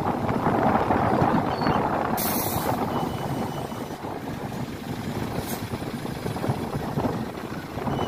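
A heavy vehicle running, with a short hiss of air about two seconds in and a briefer one near the middle.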